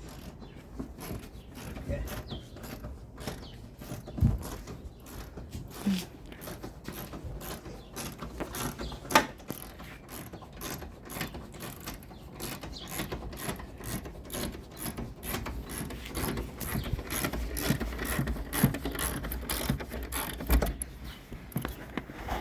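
Ratchet wrench with a 13mm socket clicking rapidly as the rear shock absorber's mounting bolts are run off, with a few louder knocks of the tool against metal.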